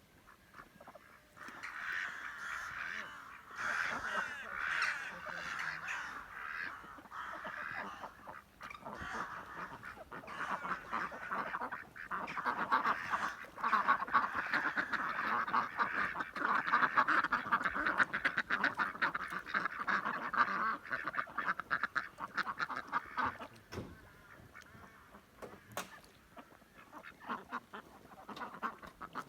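A flock of birds calling all at once, a dense, continuous chatter of many overlapping calls that builds about a second in, is busiest through the middle and thins out near the end.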